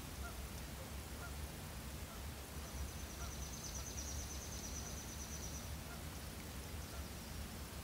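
A small bird's high, rapid trill lasting about three seconds, starting a little over two seconds in, over a steady low rumble.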